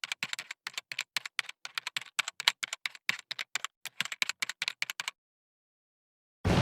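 Rapid, irregular clicking, like fast typing, that stops about five seconds in. After a second of silence, a loud sudden explosion-like boom begins right at the end.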